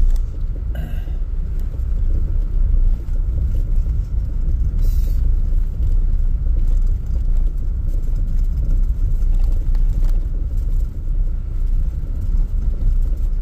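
Steady low rumble with no clear pitch, with two brief rustles, about a second in and about five seconds in.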